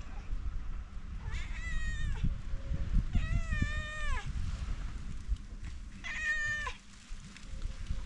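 A cat meowing three times, each meow up to about a second long and dropping in pitch at its end, over a steady low rumble.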